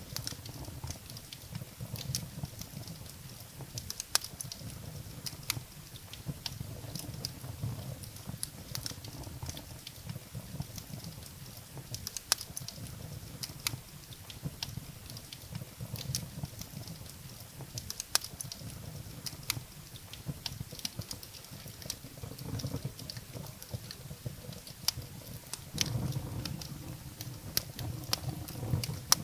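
Wood fire burning in a fireplace: firewood crackling and popping in irregular sharp clicks over the low rumble of the flames.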